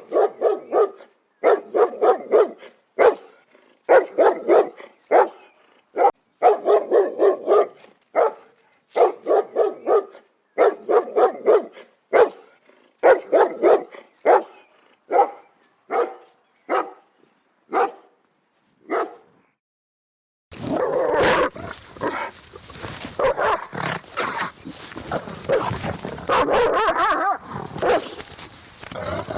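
Big dogs barking loudly in quick runs of several barks, with short pauses between runs. About twenty seconds in, after a moment of silence, it changes to a noisier recording with a steady hiss under more barking.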